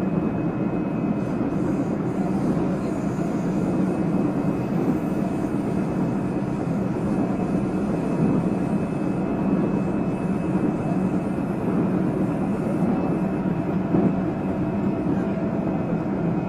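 Running noise of a JR Central 373 series electric train heard from inside: a steady rumble of wheels on rail, with a faint, steady high whine over it.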